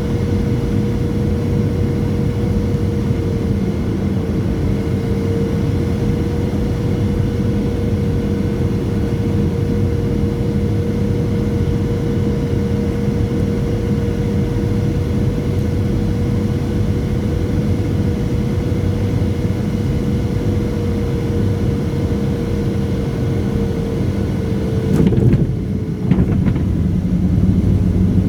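Steady rumble and airflow of a Boeing 737-700's CFM56 jet engines heard from inside the cabin, with a steady mid-pitched engine whine. About 25 seconds in there is a short knock, the whine stops, and the sound turns duller.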